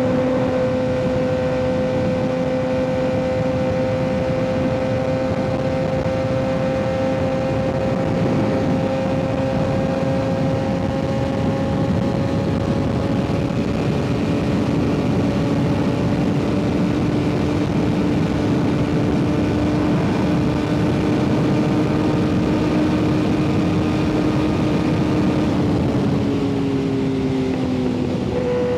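Kawasaki ZX-6R 636's inline-four engine through an M4 exhaust, riding at a steady cruising speed with the pitch creeping slowly up, over wind and road noise. Near the end the engine pitch falls off, then rises again.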